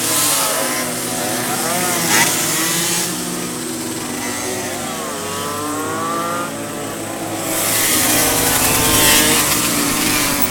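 Car engines revving, their pitch climbing and dropping several times over, with a burst of rushing noise about two seconds in and a longer, louder one in the second half.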